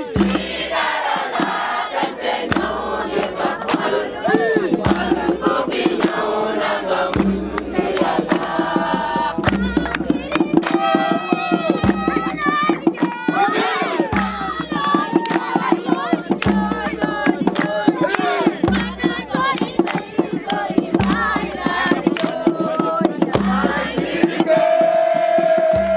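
A crowd of young people singing and chanting together, with a steady rhythmic beat of short sharp strokes and a low thump roughly every two seconds.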